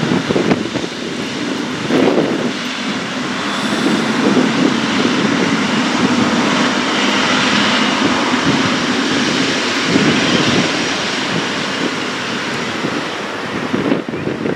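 Jet engines of a Boeing 777 freighter, heard as a loud, steady rushing noise that swells and eases slowly.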